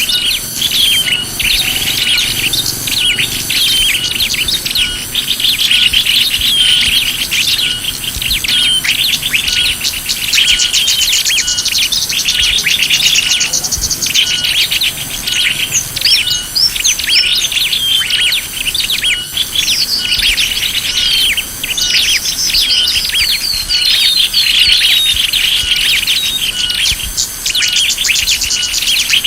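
A bird-lure recording of many small birds chirping and twittering together in a dense, continuous chorus of quick high notes and trills. A short note repeats about once a second underneath.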